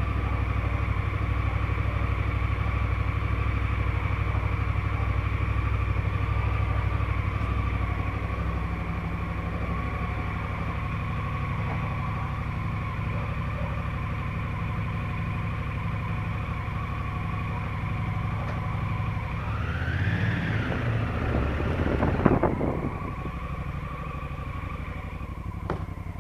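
Honda Africa Twin CRF1000L's parallel-twin engine running steadily at idle. About twenty seconds in, a whine rises and falls, and a short sharp sound follows about two seconds later.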